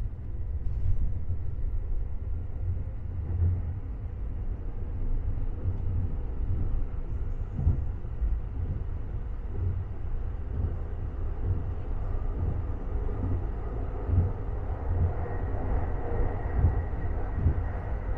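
Metre-gauge regional electric train running, heard from on board: a steady low rumble with irregular knocks from the wheels and track. In the last third a higher running noise grows louder, with a faint high tone.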